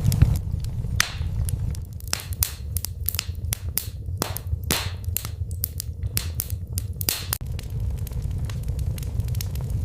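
Wood fire crackling in a fireplace: a dense run of sharp pops and snaps, thickest through the middle few seconds, over a steady low rumble of the flames.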